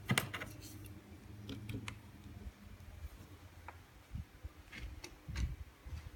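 Light clicks and taps at irregular intervals, the loudest a quick cluster right at the start, over a faint steady low hum.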